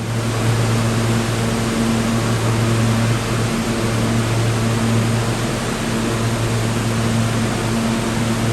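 Subway train running at a steady speed: a loud, even rushing noise over a steady low hum. It starts abruptly, as at a cut.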